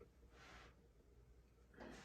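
Near silence: room tone, with one faint short hiss about half a second in.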